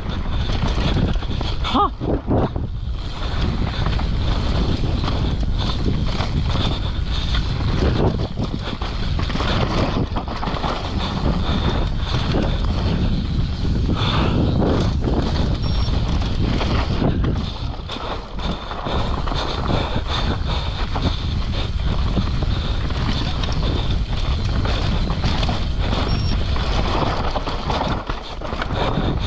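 Mountain bike ridden fast down a rough trail, heard from a camera on the rider: steady wind rush on the microphone over the rumble of tyres on dirt and roots, with constant knocks and rattles from the bike.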